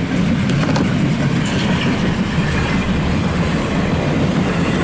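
Freight train rolling past at close range: a steady, loud rumble of steel wheels on rail, with a few faint clicks from the wheels.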